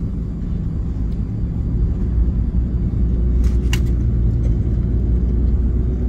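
Car driving, heard from inside the cabin: a steady low rumble of engine and road noise, with a brief tick about three and a half seconds in.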